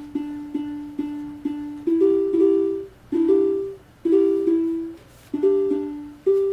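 Short plucked-string notes played by a colour-to-sound program, about two a second, hopping between two or three pitches and sometimes sounding two together, as it reacts to the colours in front of the camera.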